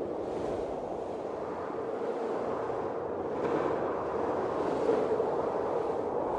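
Blizzard wind blowing in a steady rush of noise, swelling in gusts a second or so in and again around three and a half and five seconds in.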